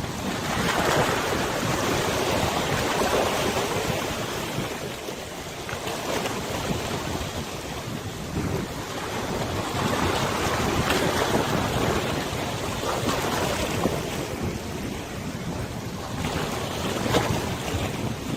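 Wind blowing across the microphone over a wide river, with waves splashing and lapping, the noise swelling and easing every few seconds.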